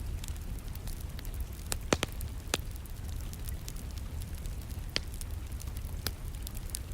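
Wood fire crackling, with sharp pops about two seconds in (the loudest), again near five seconds and once more near six, over a steady low rumble and a light patter of rain.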